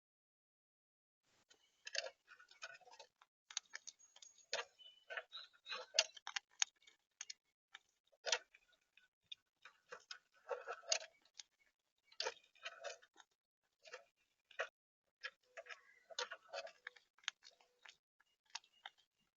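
Rapid, irregular clicking and tapping at a backyard bird and squirrel feeder, in quick clusters with short gaps, as seeds and shells are pecked and cracked.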